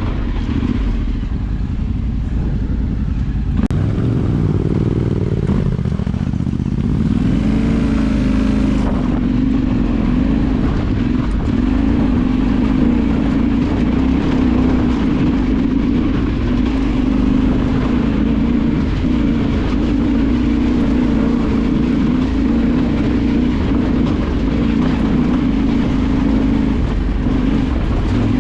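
Engine of an off-road vehicle running steadily while driving, with the revs rising and falling between about four and nine seconds in, over a constant low rumble.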